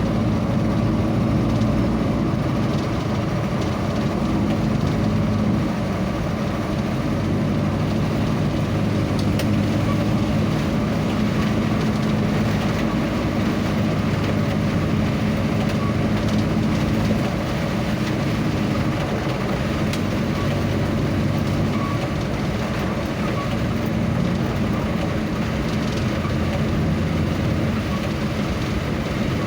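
A vehicle on the move: a steady low engine hum with continuous road and wind noise, shifting slightly in pitch and level about 6 and 17 seconds in.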